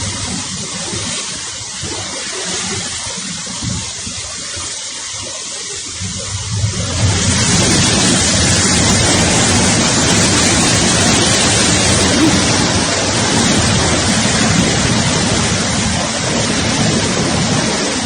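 Heavy rain pouring down as a steady rushing hiss, growing much heavier and louder about seven seconds in.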